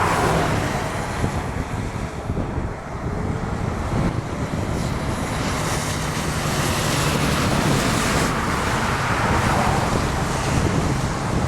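Wind blowing over the microphone, a steady rushing noise that swells and eases, with a faint low hum for a few seconds in the middle.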